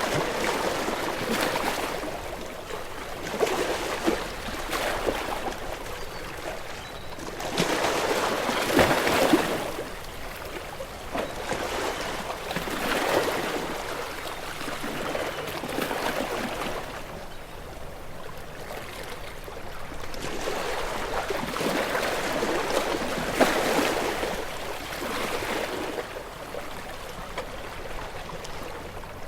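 Ocean waves washing onto a shore, with a fresh surge of foaming water every few seconds; the biggest one comes about nine seconds in.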